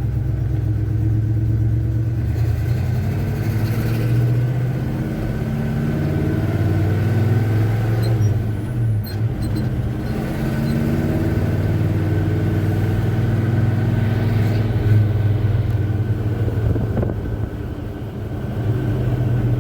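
1984 Chevy C10 pickup's 350 V8 engine running as the truck drives, its note rising and falling with road speed and easing off briefly about nine seconds in and again near the end.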